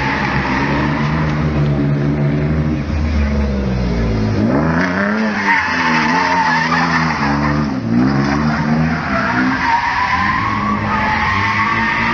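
Mercedes 190E 3.6-litre AMG's M104 straight-six revving hard through a drift, with tyres squealing. The revs dip and pick up again twice, about four and eight seconds in.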